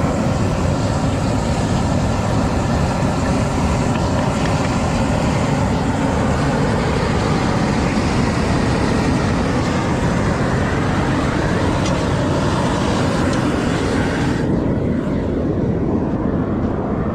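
Loud, steady machine noise with a hissing upper part that cuts off suddenly about fourteen seconds in, while the lower running noise carries on.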